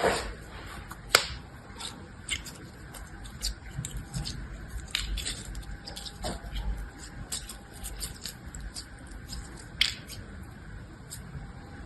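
Slime being worked by hand, with many small sticky clicks and crackles and two sharper snaps, one about a second in and one near the end.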